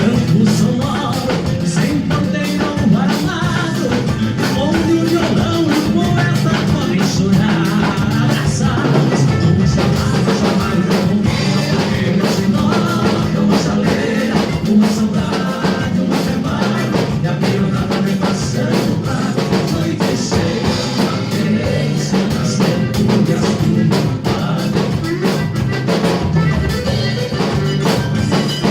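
A band playing music with a drum kit keeping a steady beat.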